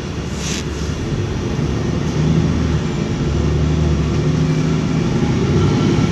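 Steady low rumble of a running motor vehicle, with a brief hiss about half a second in.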